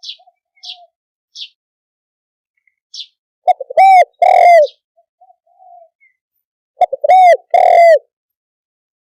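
Spotted dove calling: two loud cooing phrases about three seconds apart, each a couple of quick notes followed by two drawn-out, arched coos. Softer, fainter coos and short high chirps come in the gaps.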